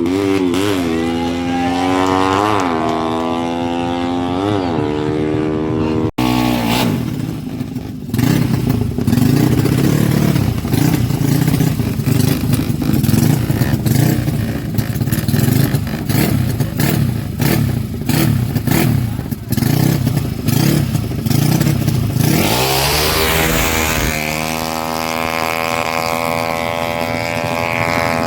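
Honda Karisma 125 single-cylinder four-stroke motorcycle engine revved in short rising-and-falling blips. After a sudden cut comes a long, loud stretch of engine noise mixed with gusting wind. Near the end the revs drop, then climb again to a steady high-pitched drone.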